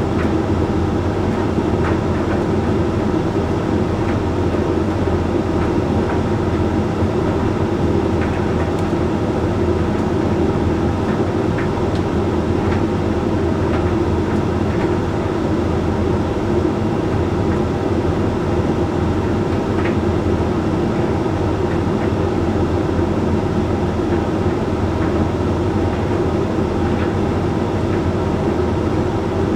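Hoover Link X Care HLX C10DRGR condenser tumble dryer running mid-cycle: a steady hum of the motor and drum turning, with a few faint ticks here and there.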